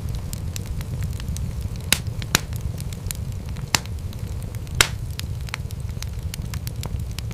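Wood fire crackling in a fireplace: a steady low rumble of flames with irregular sharp pops and snaps from the burning logs. The loudest pops come about two, two and a half, four and five seconds in.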